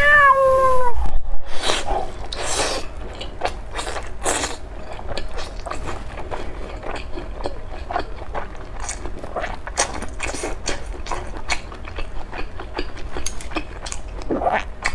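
Close-miked chewing of a mouthful of crystal shrimp dumplings: wet, squishy mouth noises and small clicks, loudest in the first few seconds, after a brief voiced sound at the very start.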